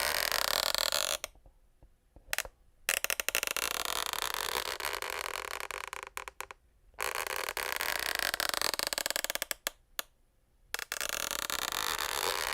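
Wooden parquet floor creaking: four long, wavering creaks of one to three seconds each, with quick crackling ticks in the short gaps between them.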